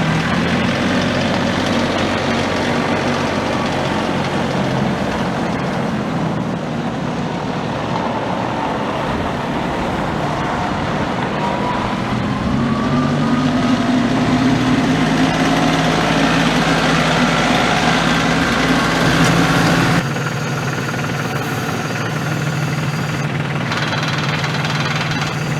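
LS G3033 three-cylinder diesel tractor engine running, its pitch rising and the sound growing louder through the middle. About 20 seconds in, the sound changes abruptly.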